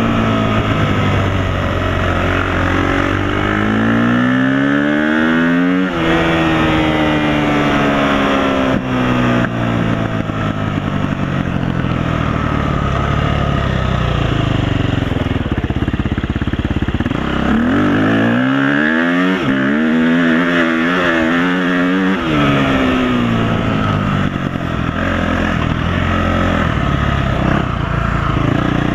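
Off-road vehicle engine revving hard. Its pitch climbs for about six seconds, drops suddenly, then winds down. Later it climbs again, holds high for a few seconds and falls back.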